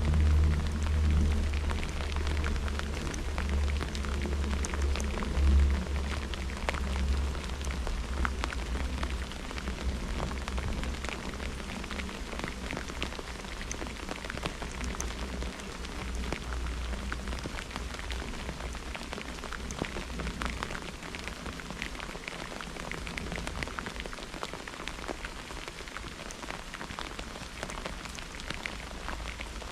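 Steady rain falling, with many individual drops ticking throughout. A low rumble of thunder swells near the start and again about five seconds in, then fades away over the first ten seconds or so.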